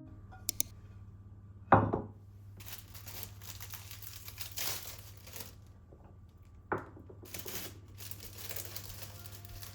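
Kitchen handling sounds: a sharp knock about two seconds in and another about five seconds later, with stretches of crinkling, rustling noise in between, over a low steady hum.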